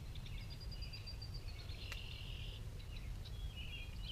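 Outdoor ambience at a marshy pond: small birds chirping and trilling, with a steady low rumble underneath. A single sharp click comes about two seconds in.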